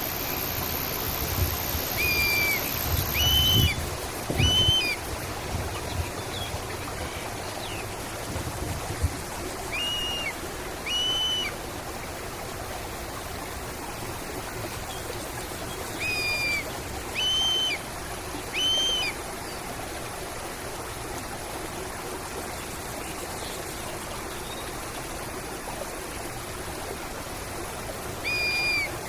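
A bird calling in short, arched whistled notes, in groups of two or three spaced several seconds apart, over the steady rush of a stream. A low rumble sits under the first several seconds.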